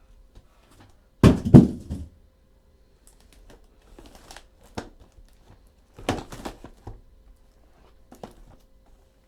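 Packaging of trading-card boxes crinkling and tearing as it is handled and opened, loudest in two spells, about a second in and about six seconds in, with fainter rustles and small clicks between.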